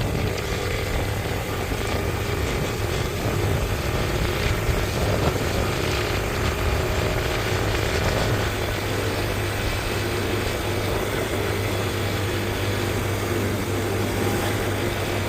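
Motorcycle engine running at a steady, even speed, a constant low hum under dense wind rush.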